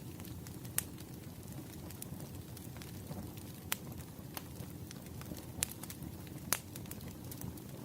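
Wood fire crackling: scattered sharp pops, a few louder ones, over a low steady rumble.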